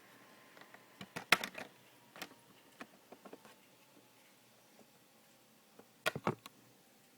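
MSI laptop cooling fan giving a faint steady whine that slowly falls in pitch, a noise the authorised service centre called a normal feature of the device. Two clusters of sharp clicks or taps stand out above it, about a second in and again near the end.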